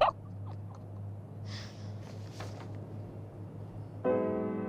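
Low steady hum with a few faint soft noises, then a sustained piano or keyboard chord of background score comes in about four seconds in and holds.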